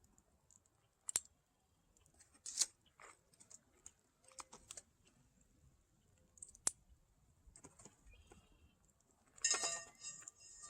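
Hard objects knocking on the stones of a chert-rock firepit: a few separate sharp clicks and knocks, then about nine and a half seconds in a louder clattering clink that rings briefly.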